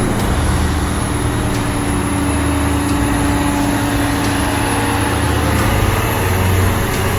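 Heavy truck engine running steadily while driving, a continuous low drone mixed with road noise.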